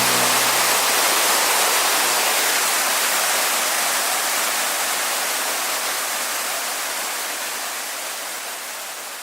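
Waterfall cascading, a steady rushing of falling water that slowly fades out.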